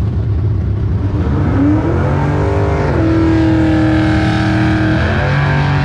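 A drag-racing car accelerating hard down the strip, its engine pitch climbing and then shifting in steps about three and five seconds in, over a steady low rumble of engines.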